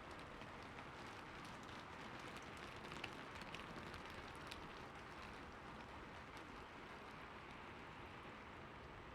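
Light rain falling: a soft, even hiss with scattered drops tapping, a few of them sharper around the middle.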